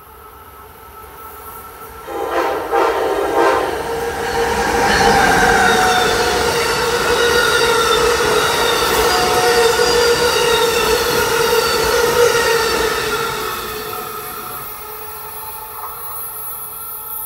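Amtrak passenger train with Amfleet coaches passing at speed. About two seconds in, the locomotive sounds a quick series of short horn blasts. The train then rushes past, loudest in the middle, with steady whining tones and high tones that slide down in pitch, before fading away near the end.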